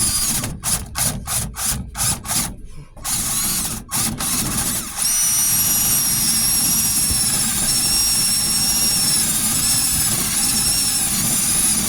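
Power sander working body filler on a truck door: short on-off bursts for the first few seconds, then from about five seconds in it runs steadily with a high whine over the rasp of the abrasive.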